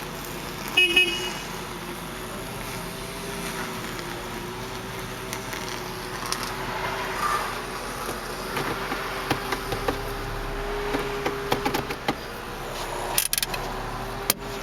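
2010 Hyundai Elantra Touring SE's 2.0-litre four-cylinder engine idling steadily just after starting, nice and quiet. A brief high beep sounds about a second in, and there are a few sharp clicks near the end.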